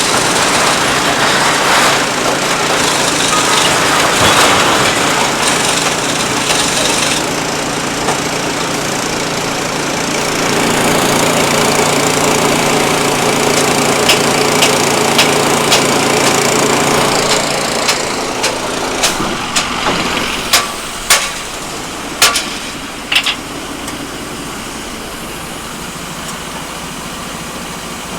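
An engine running steadily, then a series of sharp knocks about two-thirds of the way in.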